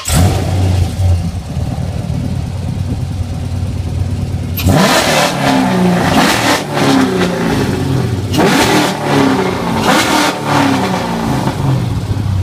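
Dodge Charger SRT8's stroked 392 Hemi V8 exhaust, just fired up and idling with a deep, lumpy rumble, then blipped repeatedly from about five seconds in, pitch rising and falling with each rev.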